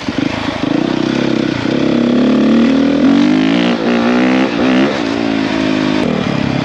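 A 450 four-stroke single-cylinder dirt bike engine under way. The revs climb steadily from about two seconds in, then rise and fall as the throttle is worked.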